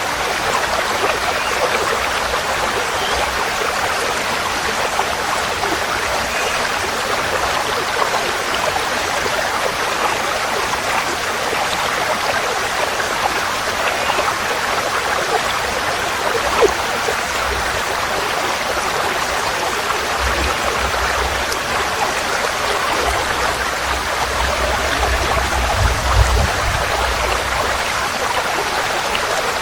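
Forest stream flowing steadily, a continuous rushing and babbling of water. A low rumble swells under it from about twenty to twenty-seven seconds in.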